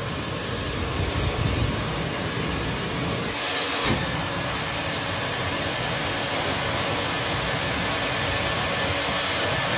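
Vacuum suction pulling lint out of a dryer vent duct: a steady rushing noise that briefly shifts in tone about three and a half seconds in.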